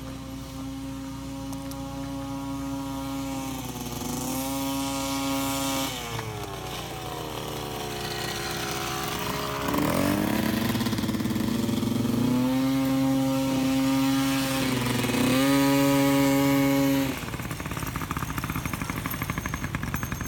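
Small dirt bike engine running under throttle. Its pitch holds steady, dips briefly, falls away about six seconds in, and revs back up sharply around ten seconds. It then holds high with two short dips before dropping off near the end.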